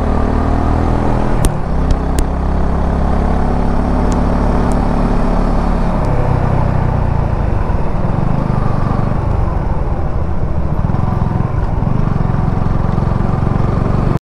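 Suzuki V-Strom 250 SX's single-cylinder engine running under way, with road and wind noise. About halfway through the revs drop and then rise again. Two sharp clicks come early on.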